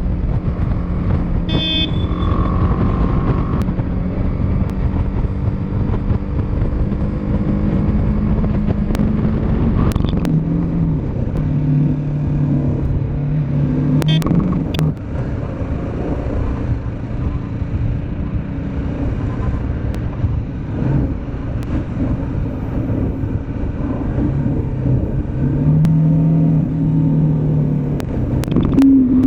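Motorcycle engine running on the move under a heavy low rumble of road and wind noise. The engine note shifts in pitch, dropping about ten seconds in and changing again later, as speed and gears change. Two short sharp sounds come near the start.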